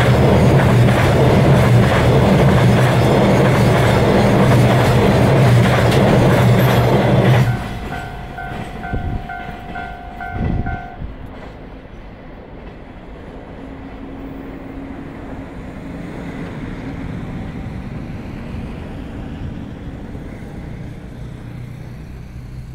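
Freight train of container flatcars rolling past close by: a loud steady rumble of steel wheels on rail that cuts off suddenly about a third of the way in as the last wagon clears. A pulsing beep, about two a second, follows for a few seconds, then the train's rumble fades into the distance.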